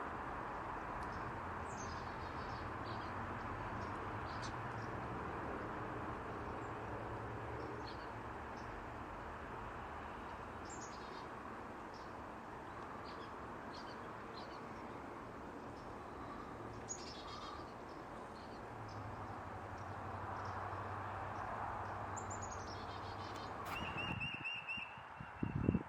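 Scattered short bird chip notes and a few quick downward-sliding calls over a steady outdoor hiss. About 24 seconds in the hiss drops away abruptly and a bird gives a rapid run of repeated notes.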